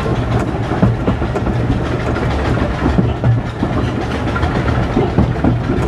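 15-inch gauge train running on the track: a steady low rumble with rapid clicks and rattles of wheels on rails.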